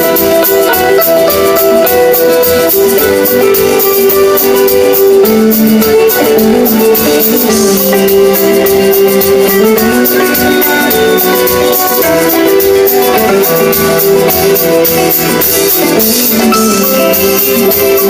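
Rock band playing live: an instrumental passage after the last sung line, a melodic lead line over guitar and a steady drum beat.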